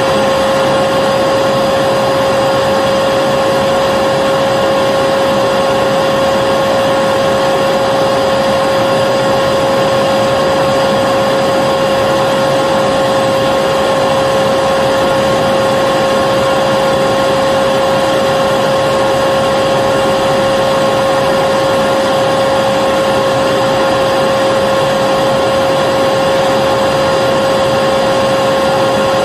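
Vacuum cleaner running continuously at a constant speed: a steady motor hum with a clear pitch over rushing air, unchanging throughout.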